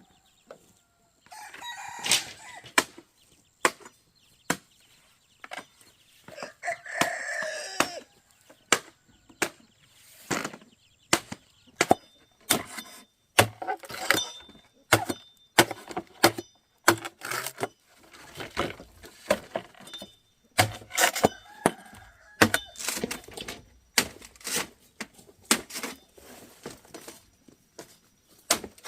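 Irregular sharp chopping knocks, several a second at times, with chickens clucking and a rooster crowing.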